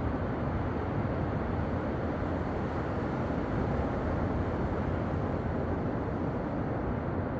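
Steady low rumbling noise that stays even throughout, with no distinct events or rhythm.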